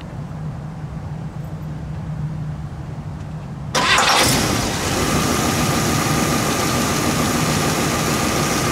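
1965 AMC Rambler Marlin's 327 V8 with four-barrel carburetor catching about four seconds in with a sudden burst after a low rumble, then settling into a steady idle, which the listener calls smooth.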